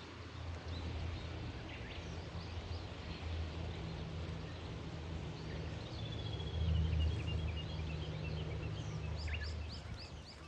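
Small birds chirping, with a run of quick, repeated chirps in the second half, over a steady low hum that fades near the end.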